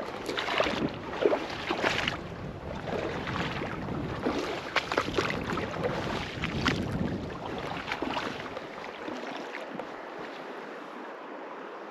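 River water running past, with wind buffeting the microphone; the low wind rumble dies away about nine seconds in.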